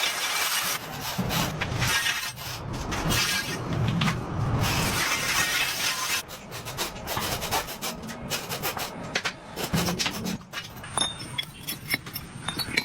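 Workshop noise: rubbing and scraping of hand-working tools on material, broken by scattered clicks and knocks, with a steadier lower thudding in the first half.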